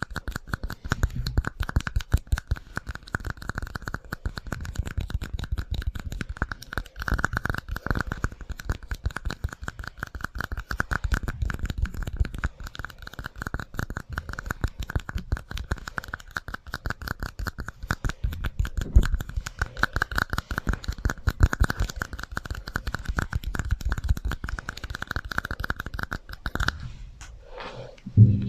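ASMR trigger sound run through an echo effect: fast, continuous tapping and scratching with a steady ringing tone under it. It stops suddenly a couple of seconds before the end.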